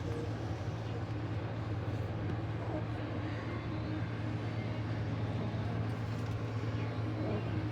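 Steady low mechanical hum with an even background rush, unchanging throughout.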